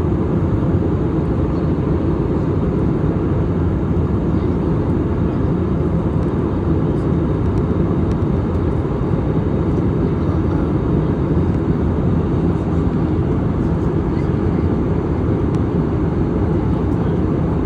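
Steady low roar of a jet airliner's engines and airflow heard from inside the passenger cabin on approach.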